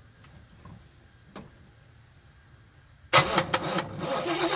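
A 1973 Chevrolet Nova's engine, cold after sitting two years, is quiet for about three seconds. Then it suddenly turns over on the starter with a few sharp clacks and a rising rush of engine noise as it begins to fire.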